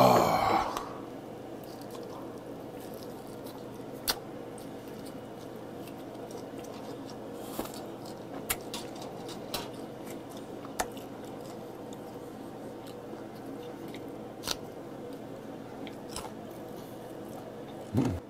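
A person chewing grilled meat with the mouth close to the microphone: sporadic short wet clicks and smacks over a steady background hum. A loud burst of sound comes right at the start.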